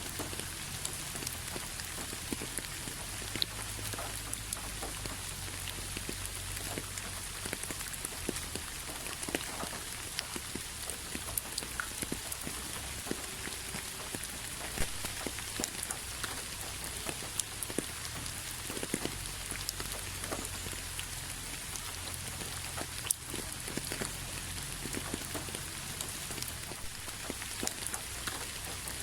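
Steady rain falling on a hard surface, a constant hiss with many separate drops pattering and ticking throughout.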